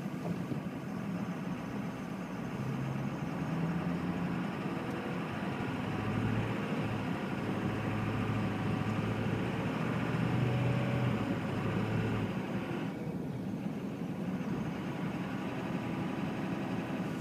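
Car engine and road noise heard from inside the cabin of a moving car, the engine's pitch rising and falling as it drives on.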